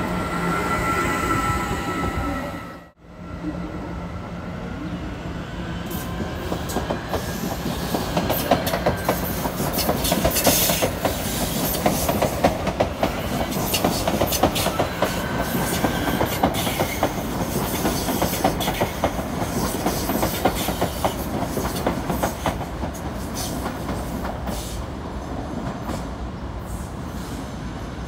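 Electric commuter train moving through a station, its wheels clacking over rail joints in a dense run of clicks that builds, then thins out toward the end. Before a brief drop-out about three seconds in, a steady high whine sits over the train noise.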